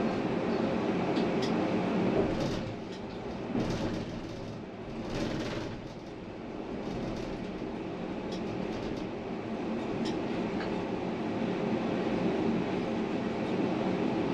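Tram running on its rails with a steady rumble. It briefly quietens in the first half, where a few short clicks sound.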